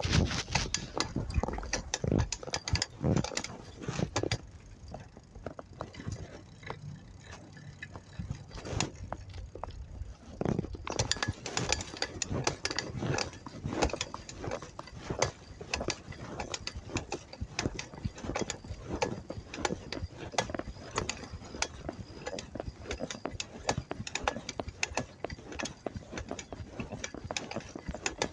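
Bicycle clicking and rattling as it is ridden: dense, irregular ticks, sparser for a few seconds and busier again from about eleven seconds in.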